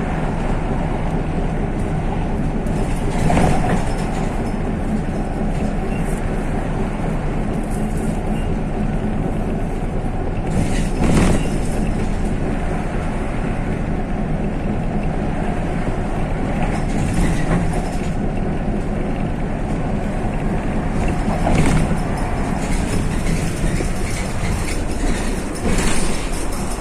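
MAZ-103 city bus heard from inside the cabin while driving, with a steady engine and road drone. A few sharp knocks or jolts of the body come about 3, 11, 22 and 26 seconds in.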